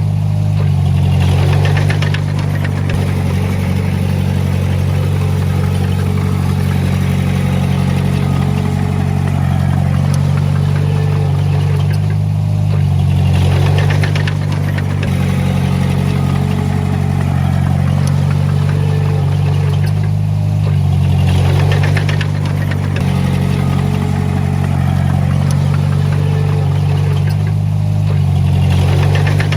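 Komatsu D20P bulldozer's diesel engine running steadily, its pitch and loudness shifting every several seconds as the load changes.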